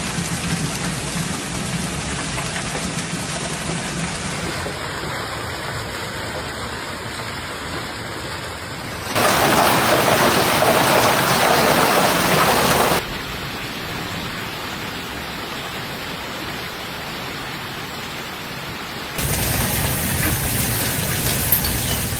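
Hail and heavy rain falling in a severe thunderstorm, heard in several short clips cut one after another. It is loudest for about four seconds in the middle, and a few sharp ticks come near the end.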